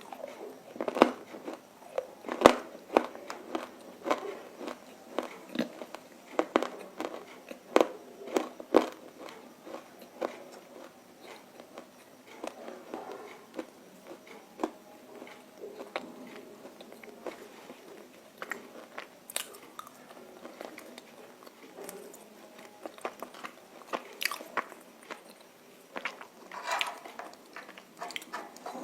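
Close-up biting and chewing of crunchy roasted nakumatt: sharp crunches come thick and loud during the first third, then thin out to softer, scattered crunches, with a few louder bites again near the end.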